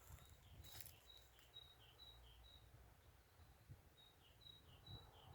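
Faint songbird song: a high two-note phrase repeated about twice a second, in two runs with a pause between, over a low rumble.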